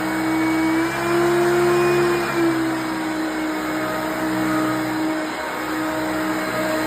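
Hoover Concept One self-propelled upright vacuum cleaner running, a steady motor whine over a rush of air; the whine rises slightly in pitch about a second in and drops back a second and a half later.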